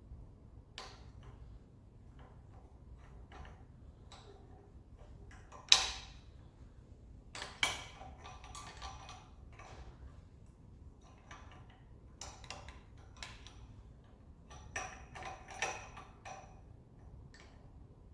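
Metal tools clicking and knocking as a three-leg puller is fitted and tightened on a stuck engine pulley: scattered light clicks, with a sharp metallic knock about six seconds in and another shortly after, then a run of clicks near the end.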